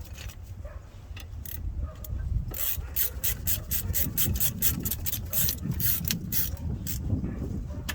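Hand tools working on steel brake caliper hardware: rubbing and scraping, then from about two and a half seconds in a run of sharp metallic clicks, two or three a second.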